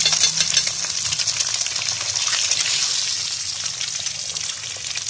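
Eggs frying in oil on a flat iron tawa over a wood fire: a steady, crackling sizzle that eases a little toward the end.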